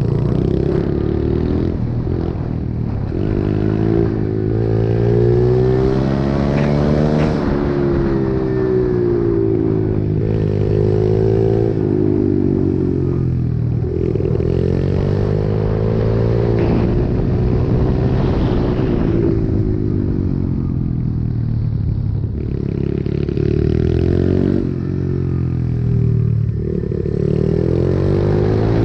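Pit bike's small single-cylinder engine being ridden hard, its pitch repeatedly climbing under throttle and dropping sharply every few seconds at gear changes and braking.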